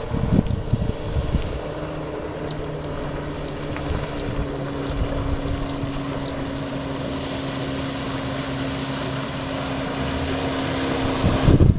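50 HP Johnson two-stroke outboard motor running at a steady speed, with wind buffeting the microphone and a loud gust near the end.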